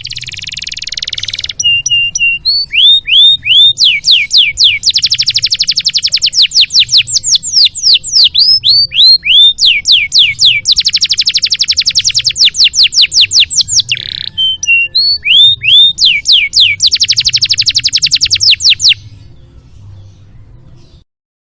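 Domestic canary singing a long, loud song of rapid trills and runs of repeated notes sweeping down in pitch, ending abruptly near the end.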